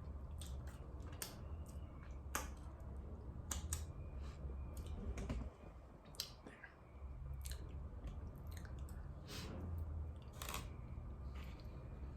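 Close-miked chewing and wet mouth smacking while eating birria tacos, with sharp mouth clicks every second or so over a low steady hum. It is a little quieter about halfway through.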